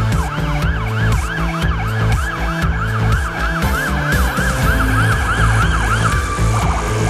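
Emergency-vehicle siren wailing up and down rapidly, about three wails a second, over background music with a steady beat. The siren stops about six seconds in.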